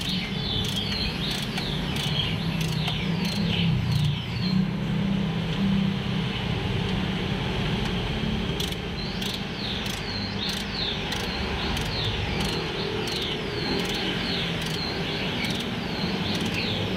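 A bird chirping over and over, short falling chirps a couple of times a second, pausing for a few seconds before starting again, over a steady low rumble.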